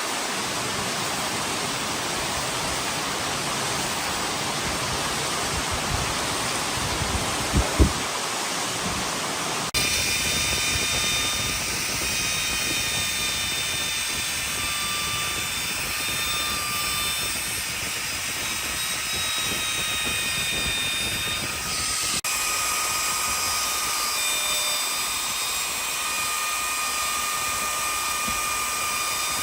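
Electric power tool running steadily with a high motor whine over a hiss. The sound changes abruptly about ten seconds in and again a little past twenty seconds.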